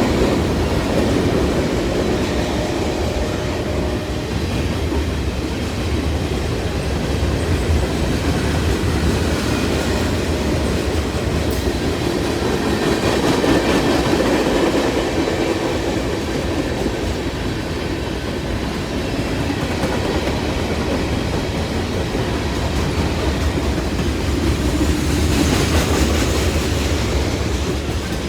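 Norfolk Southern freight train loaded with pipe rolling past: a steady rumble of the cars with wheels clicking over rail joints, swelling a little twice.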